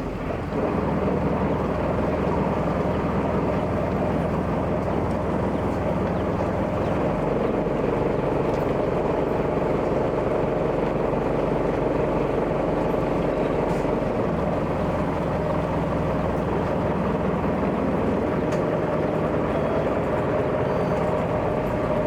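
A boat's engine running at a steady cruising pace, heard on board, a constant drone with an even hum and no change in speed.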